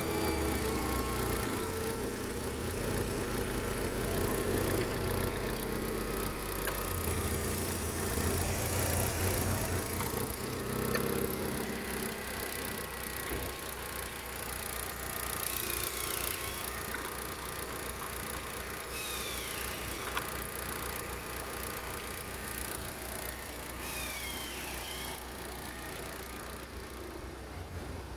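Opel Vectra C's 1.8-litre Z18XER four-cylinder petrol engine running on test at idle, its note shifting during the first dozen seconds, then steadier and a little quieter.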